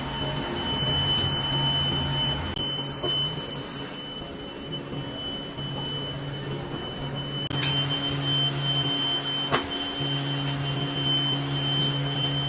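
Machine running steadily: a low hum with a constant high whine, and a single sharp click about nine and a half seconds in.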